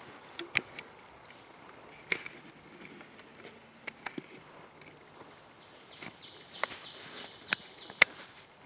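Outdoor quiet broken by a scattered series of sharp short clicks and snaps, about seven of them, with a faint high bird call about three seconds in.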